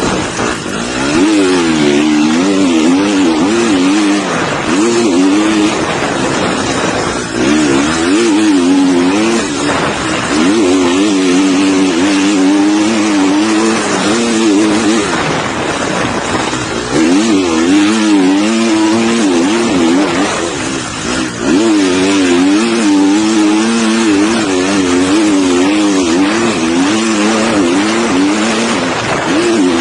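Motocross bike engine revving hard, its pitch swinging up and down again and again as the throttle is worked, with brief let-offs. Heard from an onboard camera under a heavy rush of wind noise.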